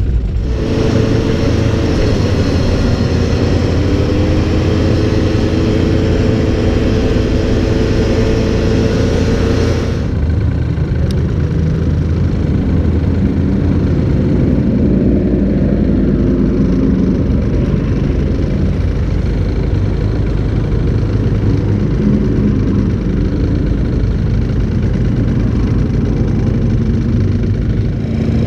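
Vehicle engines running, a steady pitched engine note with some slow changes in pitch. About ten seconds in the sound changes abruptly from a brighter, higher engine sound to a deeper, lower one.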